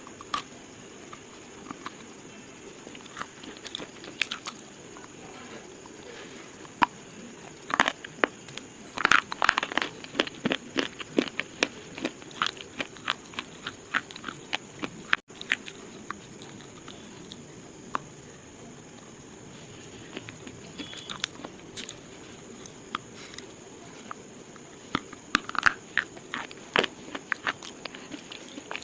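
Slate being crunched and crumbled: dry, sharp crackles in irregular clusters, densest a third of the way in and again near the end.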